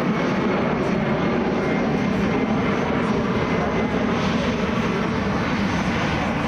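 Airliner engine noise from an aircraft at the airport, a loud, steady rush that holds level without rising or falling.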